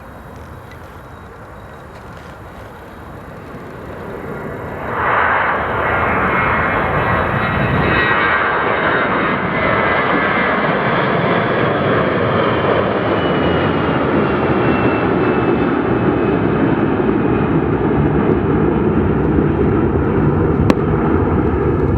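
Airbus A321-211's CFM56 turbofan engines at takeoff power as the jet passes close by. The sound builds and jumps loud about five seconds in, then runs loud and steady, with a high whine that slowly falls in pitch.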